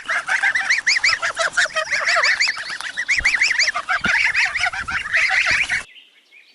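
Goslings peeping: many quick, high calls from several birds overlapping, which stop abruptly near the end.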